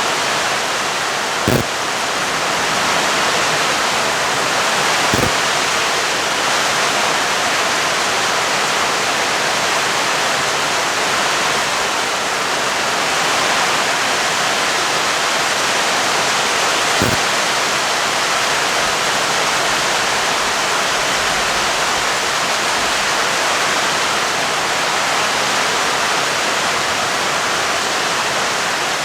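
Steady heavy rain falling. Three sharp ticks stand out above it, about a second and a half in, about five seconds in and near the middle.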